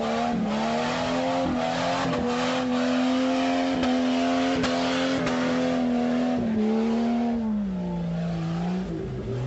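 Jeep Cherokee XJ engine held at high revs against the rev limiter, the steady note broken by repeated irregular cuts as the limiter bounces. Near the end the revs drop back in two steps.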